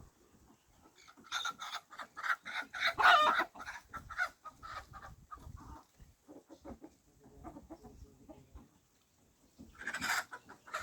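Desi chickens clucking in a rapid run of short calls, with one louder, longer call about three seconds in and another loud burst of calls near the end.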